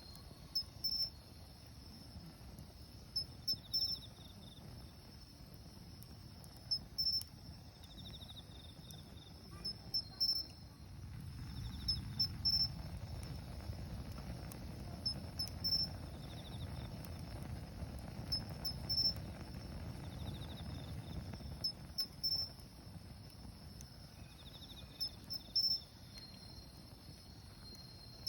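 Autumn crickets chirping: short, high chirps in quick groups every second or so, with a second insect's lower pulsed trill every few seconds. Under them a wood campfire makes a low rushing rumble that swells for about ten seconds in the middle.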